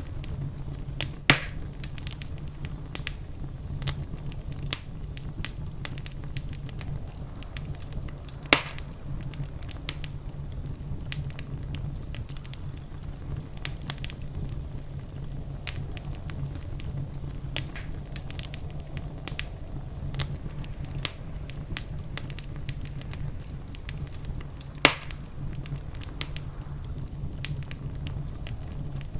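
Wood fire in a fireplace crackling steadily, with a constant low rumble under many small snaps. Three louder pops stand out: one about a second in, one near nine seconds and one near the end.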